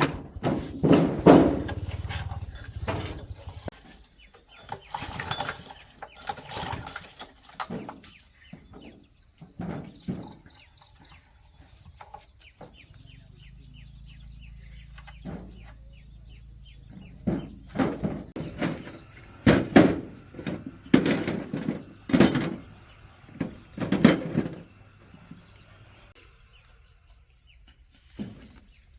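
Scattered knocks and clanks, the loudest in a cluster about twenty seconds in, over a steady high-pitched insect chirring.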